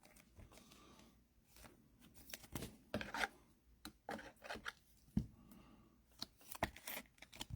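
Faint handling noises of trading cards and pack wrappers: a scatter of light clicks and short rustles, starting about two seconds in.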